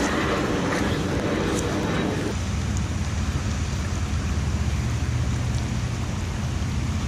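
Steady rain-and-wind noise: a hiss of light rain that thins out about two seconds in, over a low steady rumble.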